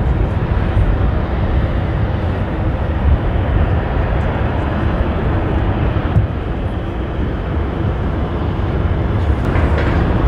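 Boeing 787-10 airliner's jet engines running with a steady, dense roar, heavy in the low end, mixed with strong wind on the microphone.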